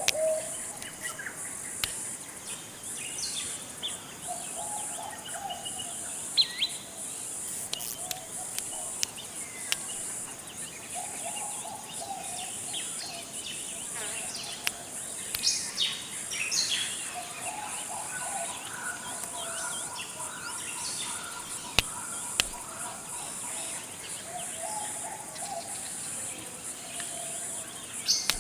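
Tropical forest ambience: a steady high insect buzz, repeated low bird calls every few seconds, and scattered higher bird chirps and whistles that are busiest in the middle.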